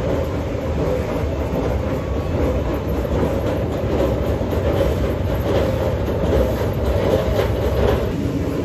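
Commuter electric train running, heard from inside the carriage: a steady, loud rumble of wheels on rail, with light clicks over the rail joints in the second half.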